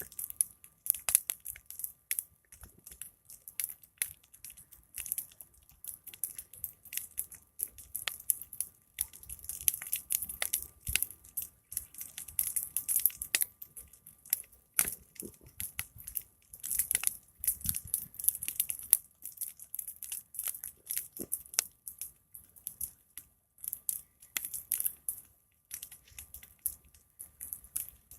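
Big open fire crackling, with a constant run of irregular sharp pops and snaps.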